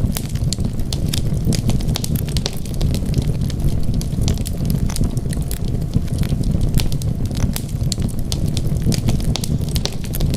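Wood fire burning, with a steady low rumble of the flames and frequent irregular crackles and pops.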